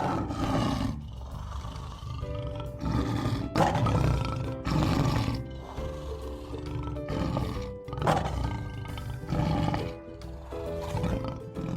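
Lion roaring several times, in loud, rough bursts of a second or so each.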